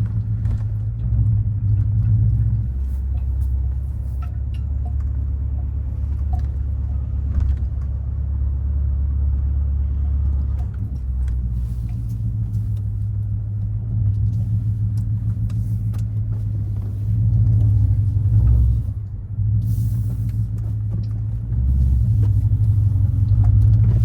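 The 2013 BMW 550i's twin-turbo V8, fitted with catless downpipes, an H-pipe and a muffler delete, giving a steady low exhaust rumble while the car is driven. The level dips briefly once, a little after two-thirds of the way through.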